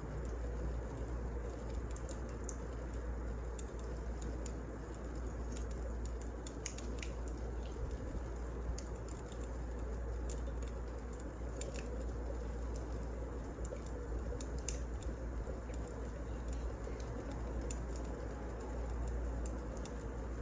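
Wood fire burning with a steady low rush and scattered, irregular sharp crackles and pops.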